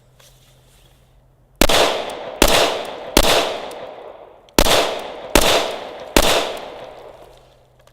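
Glock 21 Gen 4 .45 ACP pistol fired six times in two strings of three shots, each shot cracking sharply and echoing away over about a second.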